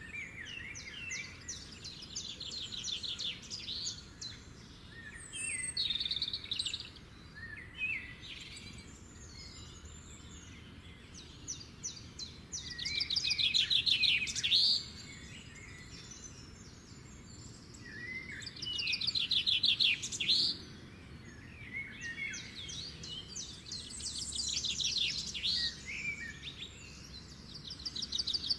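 Songbirds singing: repeated rapid, buzzy trilled phrases with short chirps between them, the loudest trills about thirteen and nineteen seconds in.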